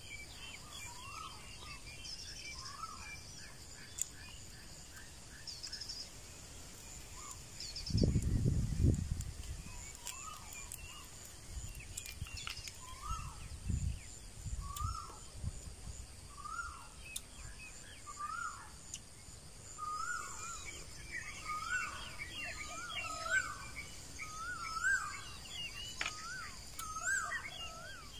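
Forest birds calling: short, repeated chirping notes about once a second, with other small calls higher up, over a steady high hiss. About eight seconds in there is a brief low rumble, the loudest sound, with a few weaker low bumps soon after.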